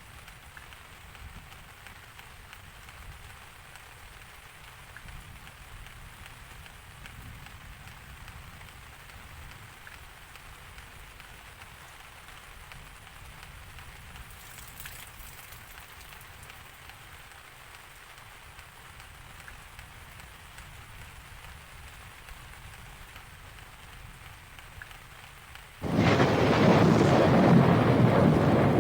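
Steady rain falling, then near the end a sudden loud clap of thunder that keeps rumbling.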